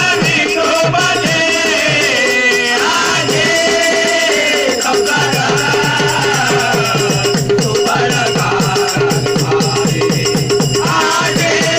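Marathi devotional bhajan music: voices singing a bending melody over a steady held drone note, driven by fast, even jingling clashes of small hand cymbals (taal).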